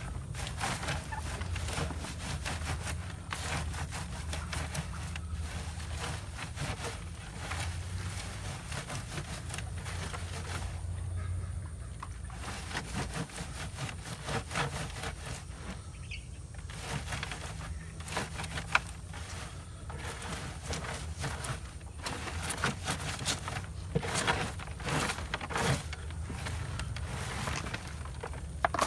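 Compost being rubbed and scraped through a sifting screen by hand: a long run of short, irregular scratchy strokes, pausing briefly now and then, over a steady low hum.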